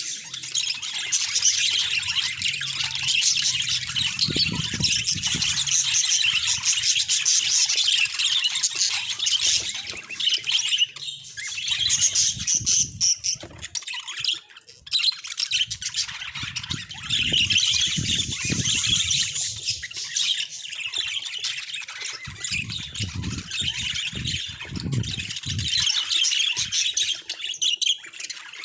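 Budgerigar chattering and warbling without pause: quick high squawks, chirps and twitters. A few low bumps or rumbles come in underneath now and then.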